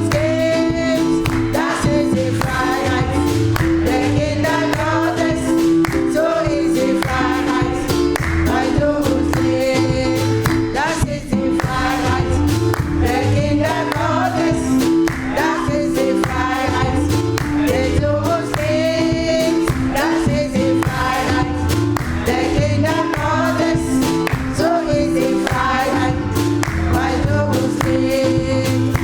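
Live gospel music: a choir singing over a steady beat with bass and instruments.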